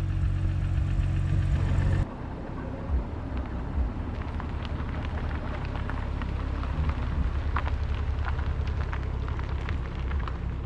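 Car engine idling steadily, then after an abrupt cut about two seconds in, a low rumble with many scattered light ticks and patters.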